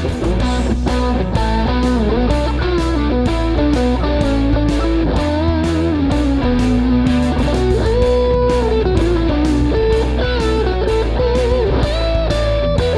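Electric guitar with Leosounds Fireball pickups playing a melodic lead line with string bends and vibrato, over a backing of bass and a steady drum beat.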